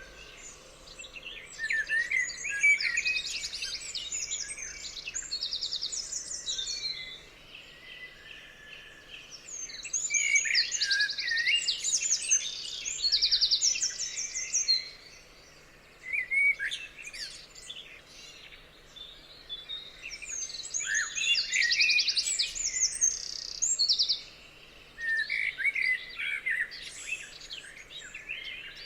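Forest songbirds singing and chirping, several overlapping songs of fast trilled notes and whistled chirps that come in spells a few seconds long with brief lulls between them.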